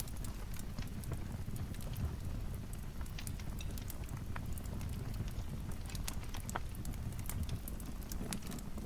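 Wood fire crackling: frequent sharp, irregular pops and snaps over a low, steady rumble of burning logs.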